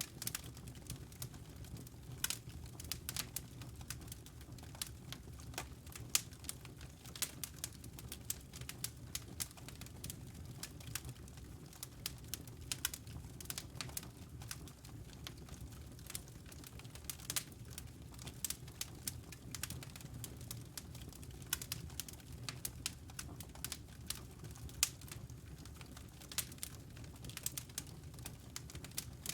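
Wood fire crackling in a fireplace: dense, irregular sharp snaps and pops over a steady low rumble of the burning fire.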